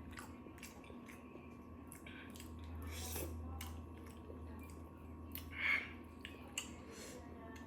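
Scattered faint clicks and light handling noises, with one brief louder sound about two-thirds of the way through, over a steady low hum.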